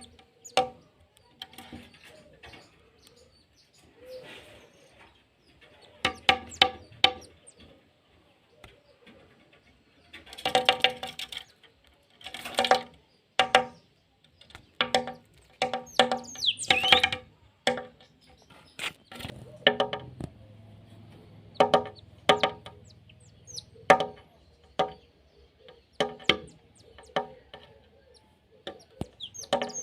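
Birds calling: series of short repeated calls in bursts every second or two, mixed with a few higher, quick chirps that slide in pitch.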